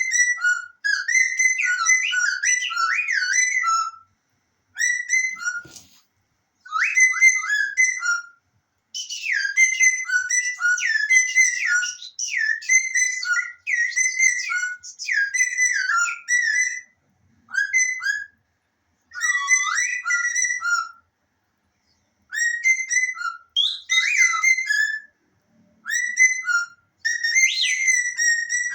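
High whistles sliding up and down in short phrases of one to a few seconds, with brief silent gaps between them: a bird slide whistle being played to a pet parrot, with the parrot whistling along.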